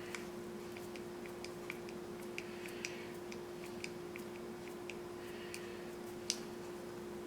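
Small screwdriver turning tiny model-kit screws, a string of small irregular clicks and ticks with one sharper click a little past six seconds, over a steady low hum. The screws are prone to stripping, and the screwdriver is turned until it slips.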